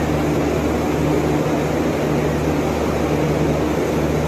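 Steady mechanical drone of a train standing at a station platform: a low, even hum with a rumbling noise beneath it.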